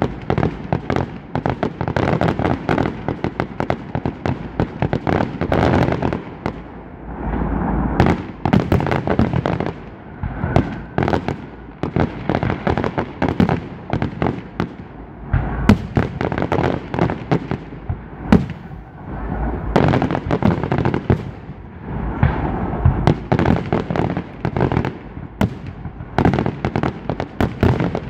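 Aerial display fireworks going off: many sharp bangs in quick succession, overlapping one another.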